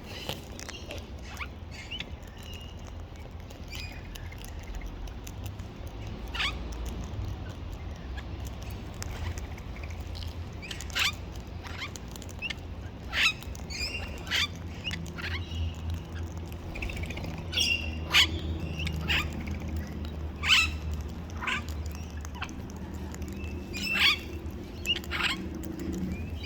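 Wild parrots and cockatoos at spread birdseed: scattered short, sharp chirps and clicks every second or so, over a steady low rumble.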